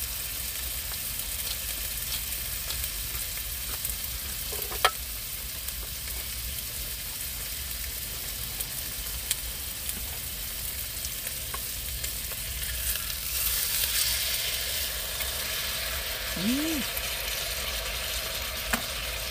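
Meat sizzling steadily in a hot pan, with a louder surge of sizzling a little past the middle and an occasional click of a utensil.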